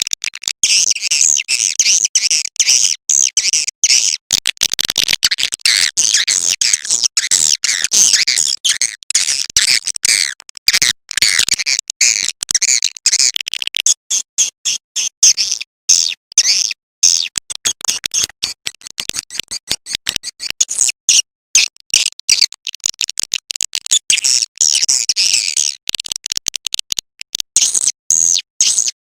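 Edible-nest swiftlet calls: dense, rapid high-pitched twittering chirps, broken by many brief gaps. This is a swiftlet lure call, played to draw swiftlets into a nest house.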